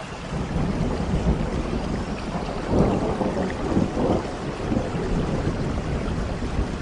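Steady rain with a low roll of thunder that builds in at the start and swells loudest about three seconds in.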